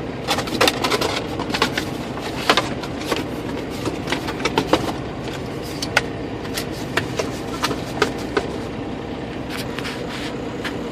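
A cardboard box being opened and the packaging inside handled: scattered sharp clicks, scrapes and crinkles over a steady low hum.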